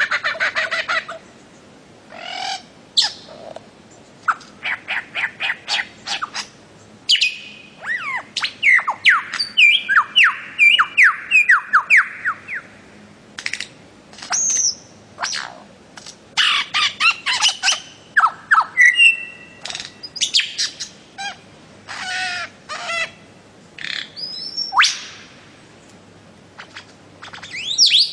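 Bird of paradise calling: bouts of quick, sharp repeated notes, with a run of short downward-sliding whistles in the middle and a few harsher calls.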